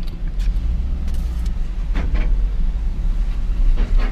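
Truck engine idling: a steady low rumble with a few faint clicks over it.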